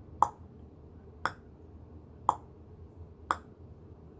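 Tongue clicks keeping a steady tick-tock beat: four sharp clicks, evenly spaced about a second apart.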